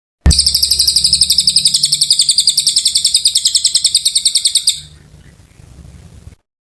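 Cililin bird singing one long, fast trill of high, evenly repeated notes, about fourteen a second, for some four and a half seconds, then a much quieter tail that cuts off suddenly.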